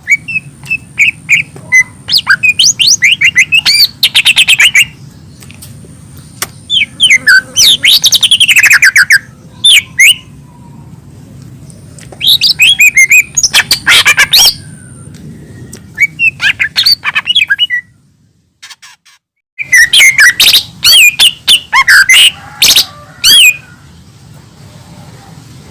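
Cucak ijo mini (a small green leafbird) singing energetically: rapid runs of sharp chirps, trills and whistled slurs in bursts of a second or two, with short pauses between phrases and one longer break about two-thirds of the way through. A low steady hum sits underneath.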